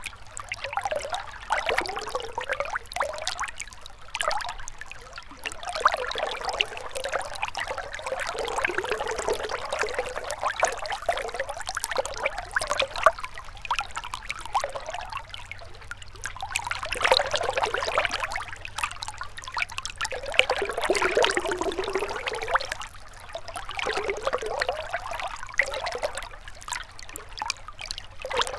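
Gentle river water trickling and flowing, its sound swelling and easing every few seconds.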